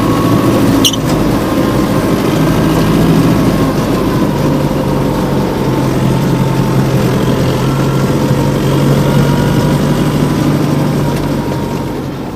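Homemade minitractor's engine running steadily, its note dropping slightly about four seconds in. There is a single sharp click about a second in, and the sound fades near the end.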